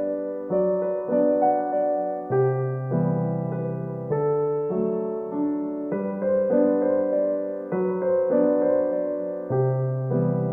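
Slow, gentle piano music: single notes struck about every half second over held chords that change every second or two.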